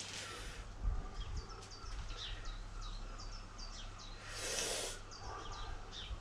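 Small birds chirping, a string of short high calls repeated through the middle, over a steady low rumble, with two brief hissing rushes of noise, one at the start and one about four and a half seconds in.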